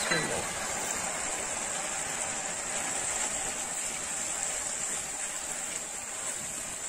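Egg halwa frying in hot ghee in a nonstick pan, giving a steady sizzling hiss as sugar is stirred through it with a silicone spatula.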